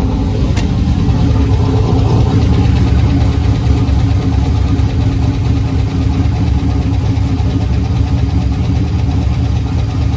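Turbocharged LS V8 in a Chevrolet Malibu wagon idling steadily, rising slightly about two to three seconds in. This is its first run after a torque converter swap.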